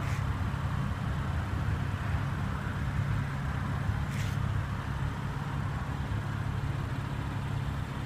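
Steady low rumble of outdoor background noise, like road traffic, with one faint click about four seconds in.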